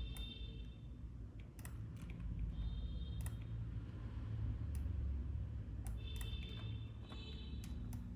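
Scattered clicks of a computer mouse and keyboard, a dozen or so irregular taps over a steady low hum.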